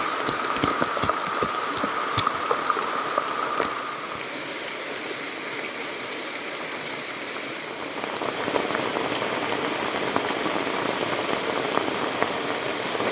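Steady rushing of a fast-flowing, swollen stream, with scattered ticks and splashes in the first few seconds.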